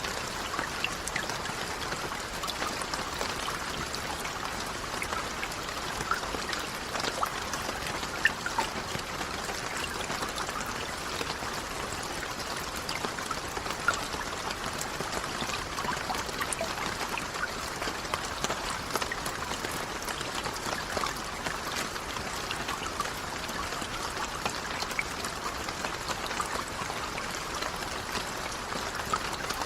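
Steady rain, with many close individual drops heard as small sharp ticks over an even wash of water noise.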